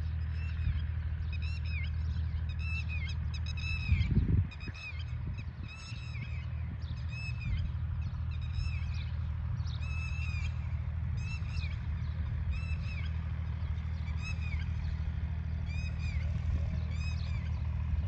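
A bird calls over and over, a short sharp note repeated steadily more than twenty times, above a steady low hum. There is one loud low thump about four seconds in.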